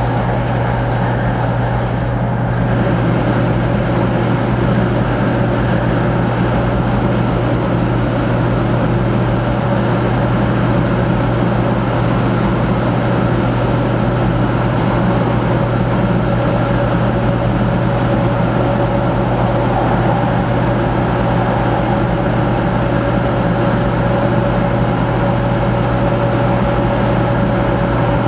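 Cabin noise inside a 500 series Shinkansen car running at speed: a steady, loud rumble with a low hum and a faint steady whine. About two and a half seconds in, the train enters a tunnel and the noise becomes a little louder.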